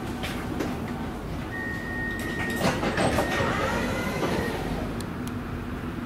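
Siemens electric multiple unit running, heard from inside the carriage: steady rumble and rattle, with a high steady squeal for about three seconds in the middle and a burst of louder clatter partway through.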